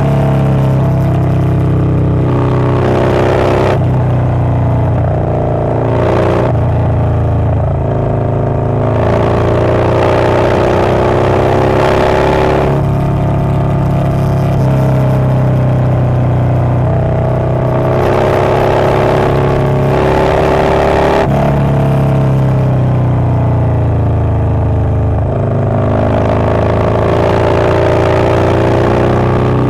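Harley-Davidson Low Rider S's Milwaukee-Eight 117 V-twin, fitted with a Wood Performance 777XE cam, running under way. Its pitch climbs and drops back again and again, as the revs rise and fall with throttle and gear changes.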